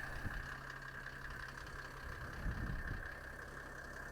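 Mercedes OM603 six-cylinder turbo diesel idling faintly and steadily, with a steady higher hum alongside it.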